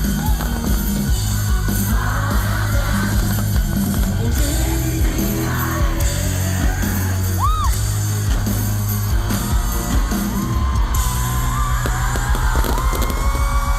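Live pop-rock concert: a band playing loud with steady drums and bass, a voice singing over it, and yells from the crowd.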